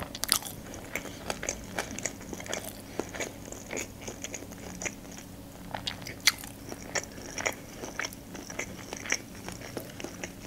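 Close-miked chewing of a mouthful of sushi roll: irregular wet mouth clicks and soft crunches, several a second.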